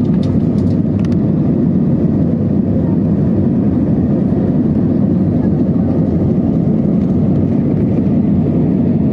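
Steady low roar inside the cabin of an Airbus A320 during takeoff: the jet engines at high power and the rush of air, with a few light clicks in the first second.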